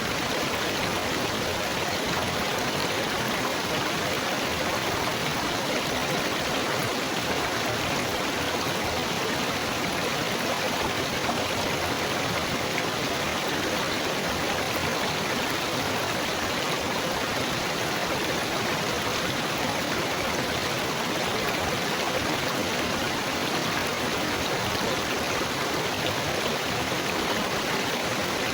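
Babbling, trickling water running steadily with an even, unbroken rush.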